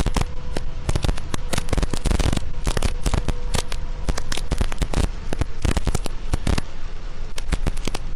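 Heavy rain pelting a car's windshield and body, heard through a dashcam as a dense, irregular patter of sharp drop impacts over a faint steady hum.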